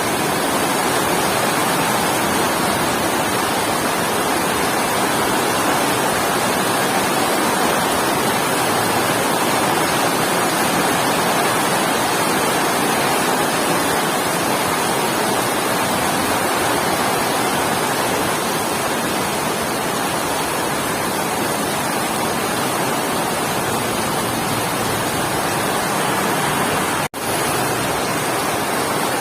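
Heavy rain falling in a steady, dense hiss that cuts out for an instant near the end.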